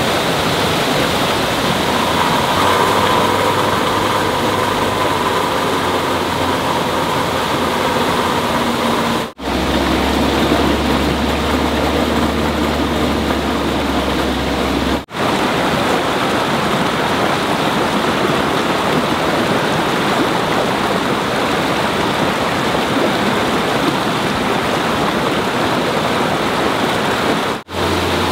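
Rushing stream water, a steady noise, cut off abruptly three times by edits. A low hum sits under the water in the middle stretch, and a faint whine in the first third.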